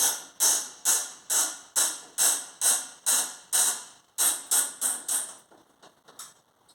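Socket ratchet clicking in quick back-and-forth strokes, about two a second, winding a bolt in, with the strokes tailing off in the last second or so.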